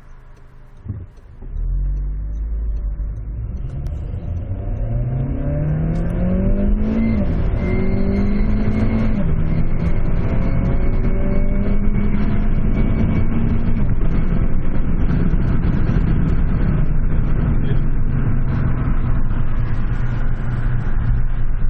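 Remapped, turbocharged SEAT Ibiza Bocanegra accelerating hard. The engine note rises through the gears, falling at each change about seven and nine seconds in, then settles into steady fast running with road and wind noise. A faint high turbo whistle rides over it during the middle gear.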